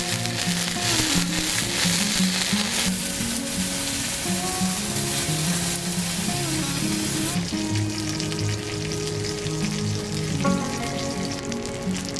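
Food sizzling as it fries, the hiss changing abruptly a few seconds in and again past the middle, over background music with a slow stepping melody.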